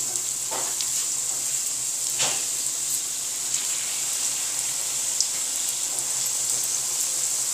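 Chicken vegetable rolls in spring-roll wrappers shallow-frying in hot oil on a lowered flame: a steady, high sizzle with scattered small crackles. The sizzle flares briefly about two seconds in.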